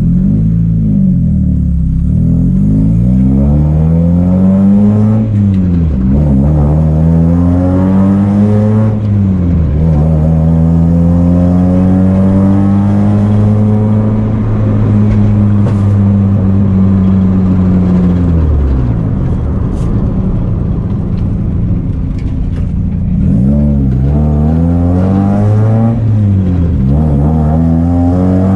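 Mazda Miata's freshly rebuilt four-cylinder engine pulling through the gears. Its pitch climbs and drops back twice at upshifts, holds steady at a cruise for about eight seconds, falls away as the car slows, then climbs through the gears again near the end.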